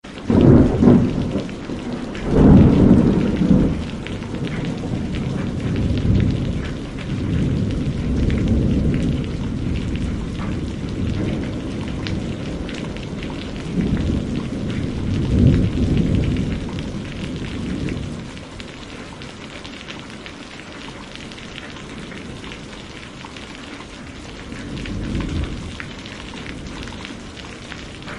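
Heavy rain falling steadily, with rolling thunder. Several low rumbles come through; the strongest are about two to three seconds in and again around fifteen seconds, and the storm grows quieter in the last third, with one softer rumble near the end.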